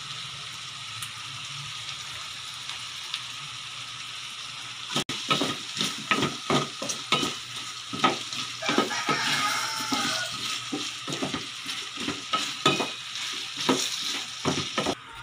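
Vegetables and pork sizzling in a stainless steel pan while a wooden spatula stirs them. After about five seconds the stirring gets busier, with quick repeated scrapes and knocks of the spatula against the pan over the steady sizzle.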